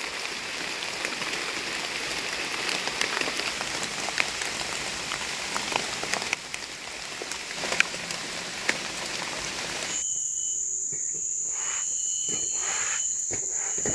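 Steady rain falling, with scattered close drops ticking. About ten seconds in it cuts off abruptly to a steady chorus of insects droning in several high, unbroken tones, with a few faint knocks.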